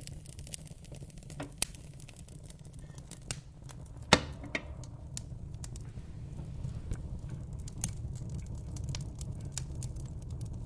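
Wood fire crackling in a fireplace: irregular sharp snaps and pops over a steady low rumble, with one loud pop about four seconds in.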